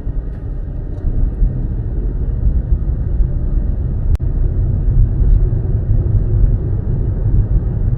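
Steady low rumble of a car driving, with a single sharp click about four seconds in.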